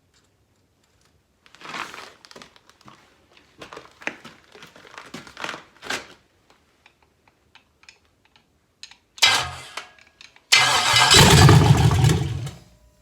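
LS V8 engine on its first start: a short turn-over at about nine seconds, then a louder burst of two seconds or so from about ten and a half seconds in before it stops. Scattered clicks and knocks come first.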